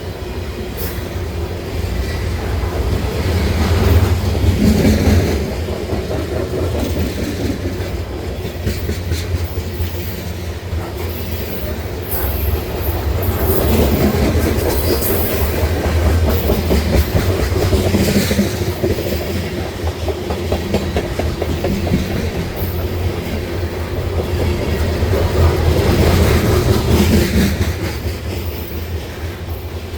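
Freight cars rolling past: a steady low rumble with wheels clacking over rail joints, swelling and easing as the cars go by, with a few brief high wheel squeals.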